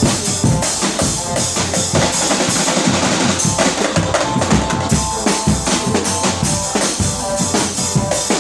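Live percussion-led music: drums beating a fast, dense rhythm, with a held melodic line over it.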